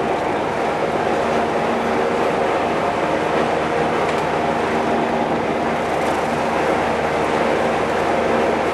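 An engine running steadily, a constant drone with a steady hum.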